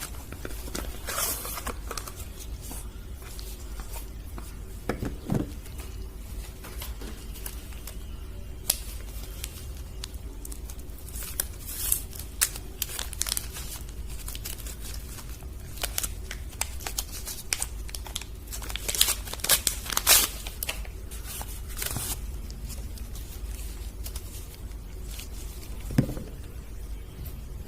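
Soap bar wrappers being torn open and crinkled by hand: irregular tearing and crackling, with the loudest rips around the middle. A couple of soft knocks are heard, one near the end, over a faint low hum.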